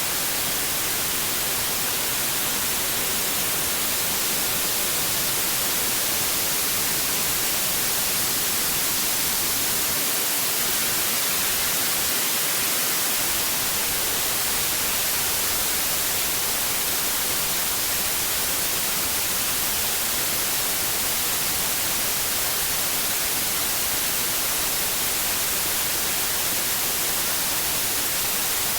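Steady white noise: an even, unchanging hiss with the most energy in the high frequencies, played as a sleep aid for babies.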